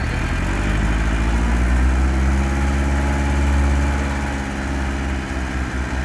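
Heavy diesel engine of earthmoving machinery revving up within the first second, holding high under load, then easing back down over the last couple of seconds.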